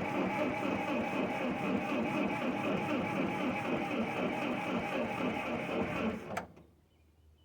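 Starter motor cranking an old carbureted engine with points ignition, turning over steadily without firing, then cutting off with a click about six seconds in.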